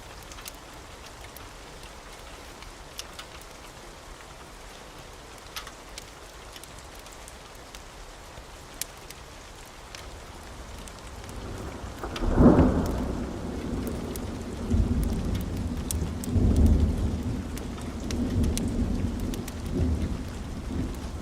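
Wood fire crackling, with scattered sharp pops over a soft hiss. About twelve seconds in, a loud low rumble sets in and rolls on in surges.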